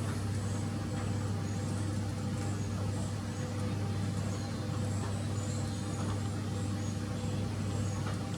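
Steady low motor hum with no change in level, with faint short high-pitched chirps over it.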